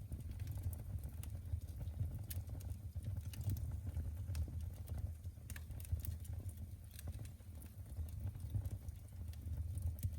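Wood fire burning in a fireplace, crackling: irregular sharp snaps and pops over a steady low rumble of the flames.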